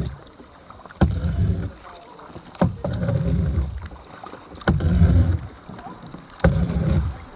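Kayak paddle strokes, about one every two seconds. Each stroke is a sharp knock or splash as the blade goes in, followed by about a second of low rushing sound.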